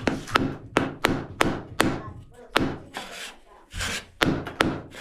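Repeated sharp knocks on a hard material, about eight in quick irregular succession, each with a short ringing tail. There is a brief scrape a little before the last few knocks.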